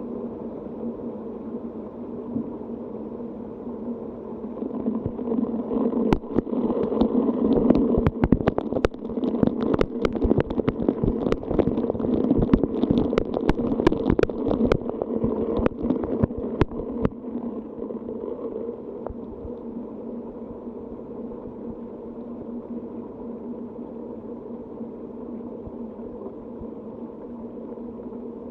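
Rainstorm background with a low steady hum. About six seconds in, a rumbling swell full of sharp crackles builds, then dies away by about seventeen seconds.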